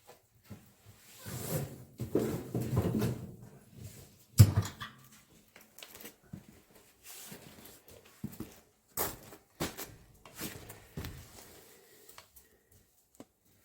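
Knocks, scraping and clatter of firewood and cast-iron stove parts being handled, with one loud clunk about four and a half seconds in and lighter clicks after it.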